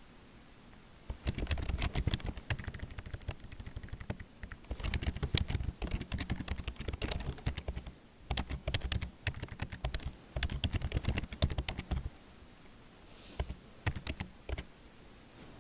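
Computer keyboard being typed on in quick runs of key clicks, with short pauses between bursts. The typing stops about twelve seconds in, followed by a few scattered single clicks.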